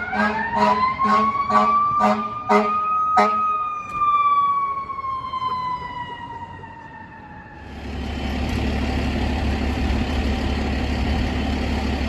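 Fire engine's mechanical siren winding up and then slowly winding down, with the air horn blasting in short bursts about twice a second for the first three seconds. As the siren dies away, the truck's diesel engine takes over with a loud, steady low rumble from about eight seconds in.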